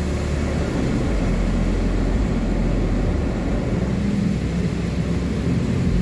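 Automatic car wash machinery running: a steady low rumble with a faint hum through it.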